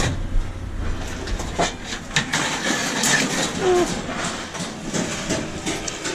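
Scrap metal being handled: irregular clanks, knocks and scrapes of metal parts moved against each other, with a brief squeak of scraping metal about three and a half seconds in.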